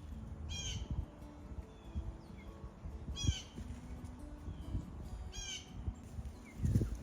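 A bird gives three calls about two and a half seconds apart, each a quick run of stacked, falling notes, over the low thuds of footsteps on the trail.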